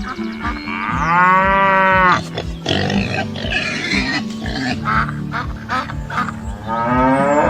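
Two farm-animal calls over background music with a steady beat: a loud pitched call about a second in, lasting about a second, and a second call near the end.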